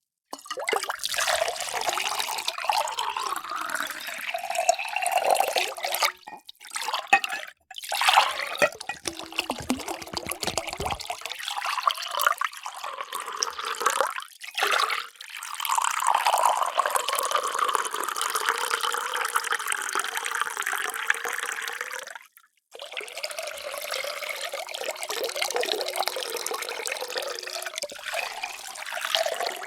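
Water pouring into a vessel, in four separate pours, each cut off abruptly by a brief silence before the next begins.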